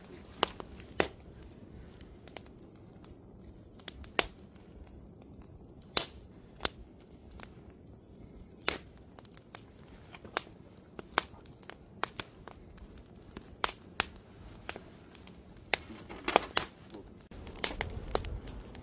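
Wood campfire crackling: sharp, irregular pops and snaps over a faint steady hiss, with a quick cluster of pops near the end.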